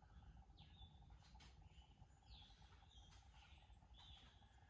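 Near silence with faint, short falling bird chirps, about one every second, over a low steady hum.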